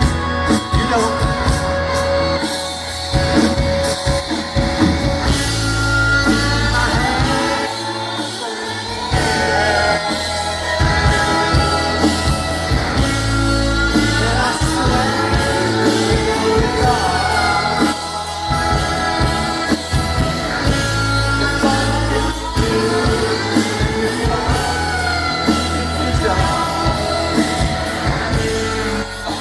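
Live rock band playing, with a sung lead vocal over heavy bass; the bass drops out briefly about eight seconds in.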